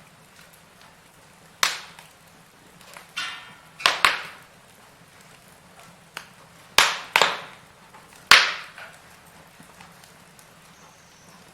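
Firewood burning in a fireplace, crackling with six sharp pops spaced irregularly among quieter ticks, and a brief hiss about three seconds in.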